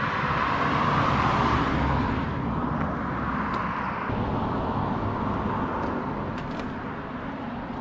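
Road vehicle noise: a steady rumble that swells about a second in and eases off after about two seconds, like a vehicle going past.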